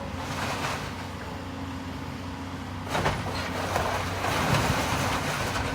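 Demolition excavator's diesel engine running steadily, with crunching of broken brick and debris about three seconds in and again near the end.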